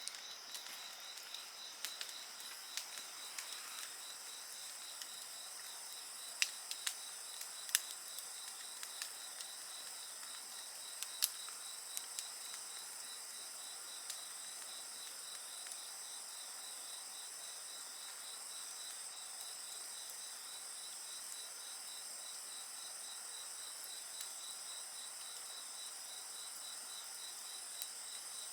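Crickets and other insects chirping steadily in several high pitches, one a fast pulsing trill. A campfire crackles alongside, with a few sharp pops in the first half.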